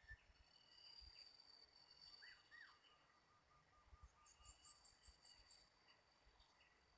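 Faint calls of several small birds outdoors: short chirps, two arching notes and a run of quick repeated notes, then a fast high trill of about seven notes past the middle. A thin, steady high insect-like whine runs underneath.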